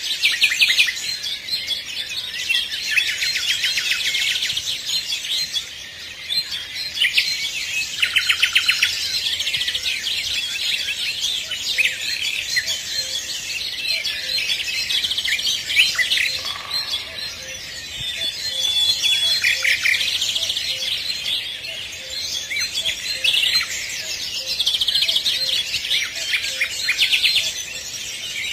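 Many birds singing at once: quick chirps and trills overlapping without a break.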